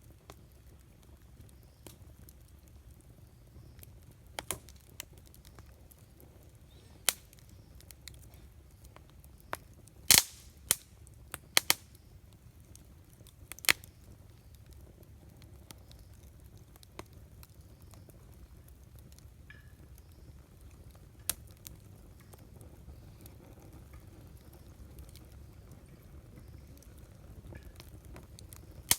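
Wood campfire crackling, with about a dozen sharp pops scattered through, the loudest about ten seconds in, over a low steady rumble.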